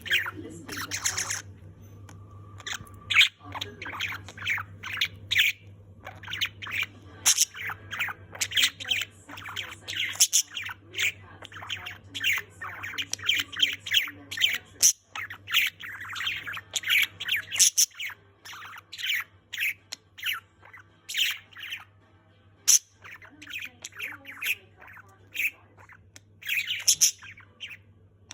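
Budgerigar chattering: a fast, unbroken stream of short chirps and squawks.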